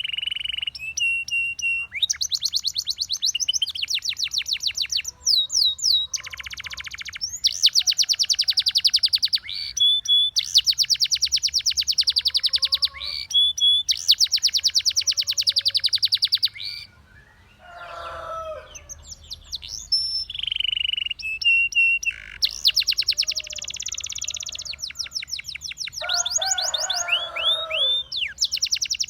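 Domestic canary singing, in the Russian singing canary style: long runs of fast, rapidly repeated trill notes broken by clear held whistles. The song pauses briefly past the middle, and lower, harsher notes come twice in the second half.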